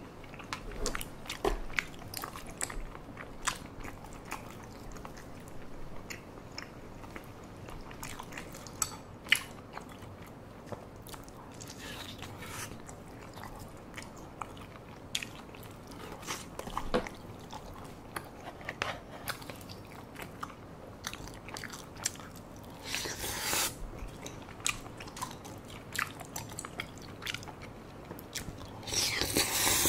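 Close-miked eating of spicy tteokbokki: wet chewing of chewy rice cakes in thick sauce, with many small mouth smacks and clicks. Two longer, louder slurps come about two-thirds of the way through and at the end.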